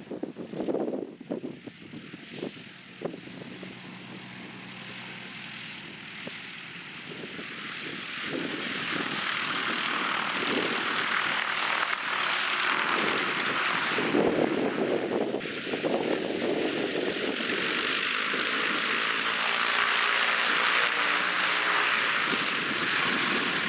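Cessna 182RG's six-cylinder Lycoming engine and propeller running, growing steadily louder over several seconds and then staying loud and steady. Wind buffets the microphone in the first few seconds.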